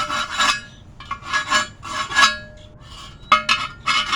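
Rust being scrubbed off a steel wheel rim's bead seat by hand: repeated back-and-forth scraping strokes of an abrasive tool on metal, with a short pause in the middle. The rust is being cleaned off so the tire bead will seal and stop leaking air.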